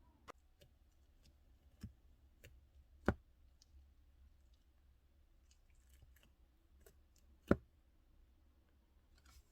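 A scattering of faint sharp clicks and taps, with two louder knocks about three seconds in and again later on.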